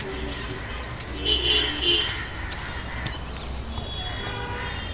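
Animal calls: a few short pitched cries, the loudest about a second and a half in, over faint bird chirps.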